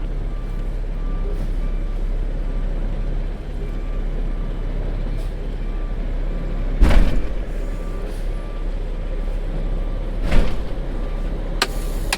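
Semi truck's diesel engine running steadily at low speed, with a faint beep repeating at an even pitch. Two loud, short noises break in about seven seconds and just past ten seconds in.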